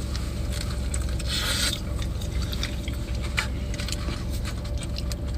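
Close-up eating sounds: chewing with small wet clicks and scraping, over a steady low rumble. A short breathy hiss comes about one and a half seconds in.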